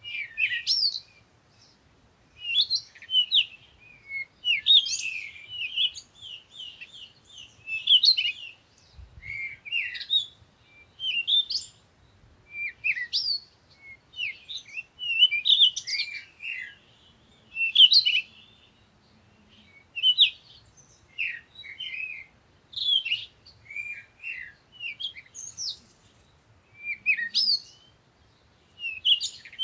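Songbirds chirping and singing in short phrases of quick, high sliding notes, a new phrase every second or two.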